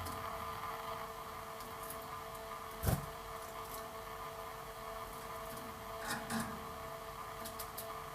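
Canaries feeding in a cage: scattered small clicks and taps over a steady hum, with one louder knock about three seconds in.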